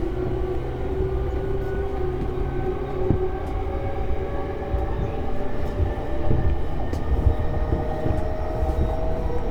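E233 series electric train running, with a steady rumble of wheels on rail and a motor whine whose several tones climb slowly in pitch as the train gathers speed.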